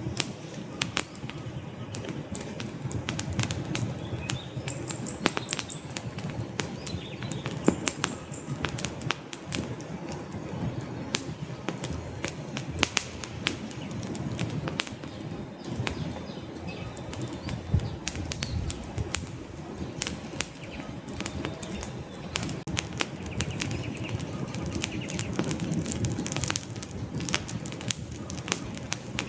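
Wood fire in a fireplace crackling, with frequent irregular sharp pops and snaps of burning logs over a low, steady rumble of the flames.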